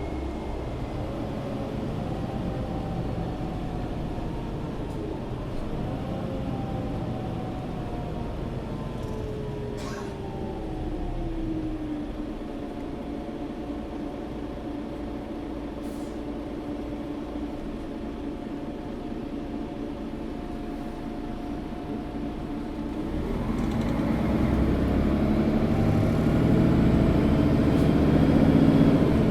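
Mercedes-Benz Citaro O530 G articulated bus heard from inside: the engine and drivetrain whine falls in pitch as the bus slows, then runs lower and steady for about ten seconds. Near the end it grows louder with a rising pitch as the bus accelerates again.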